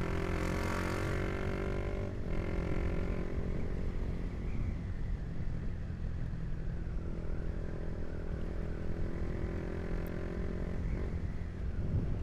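Honda CB150R's single-cylinder 150 cc engine running through a Proliner aftermarket exhaust with its dB killer fitted, while the bike is ridden. The engine note is held fairly steady and breaks briefly about two seconds in.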